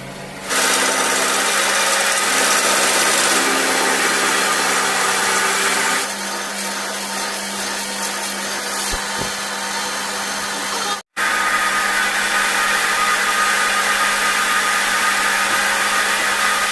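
A power tool running steadily while working metal, with a constant motor hum under loud hiss. It gets quieter about six seconds in and cuts out for an instant near eleven seconds.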